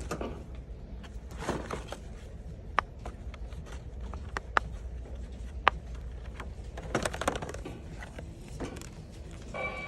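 Handling noise: scattered rustling and three sharp clicks over a low steady hum.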